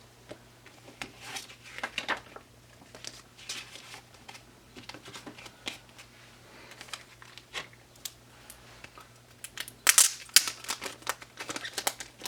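Photocards and stickers being handled and sorted by hand, with intermittent crinkling of their packaging and short card-on-card slides and taps, busiest about ten seconds in.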